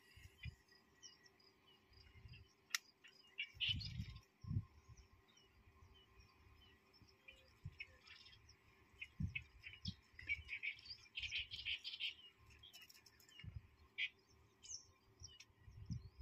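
Small birds chirping: scattered short, high calls, faint, with a few soft low thumps near 4 and 9 seconds.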